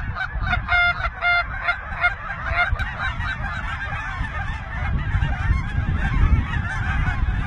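A large flock of geese calling, many overlapping honks and yelps at once, with two louder, clearer calls about a second in and a low rumble underneath.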